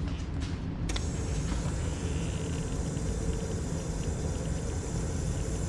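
Aprilaire steam humidifier boiling water in its canister: a steady low rumble, joined about a second in by a constant hiss of steam.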